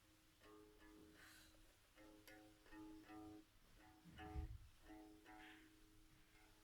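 Homemade one-string ukulele plucked softly in a run of short notes, mostly on one repeated pitch. A dull thump about four seconds in is the loudest sound.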